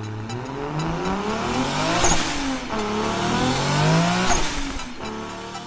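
Car engine accelerating hard under an intro logo: its pitch climbs, drops sharply at a gear change twice, and climbs again before fading near the end.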